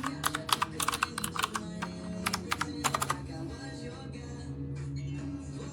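Typing on a typewriter-style mechanical keyboard: keys clacking in quick runs for about three seconds, then stopping. Soft background music plays underneath.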